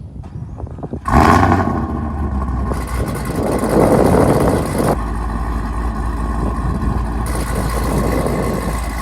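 Chevrolet Camaro ZL1's supercharged 6.2-litre V8 cold start: the engine catches suddenly about a second in with a loud flare, swells again around four seconds, then settles into a steady high cold idle.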